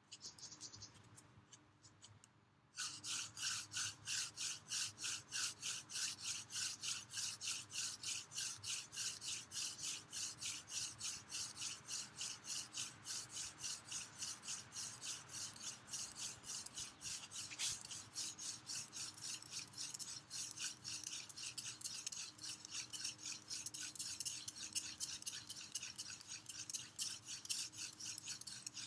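Hand-drill fire-making: a cattail spindle spun back and forth between the palms, grinding into a basswood hearthboard with a rhythmic rasping scrape, a few strokes a second. It starts suddenly about three seconds in and keeps going steadily.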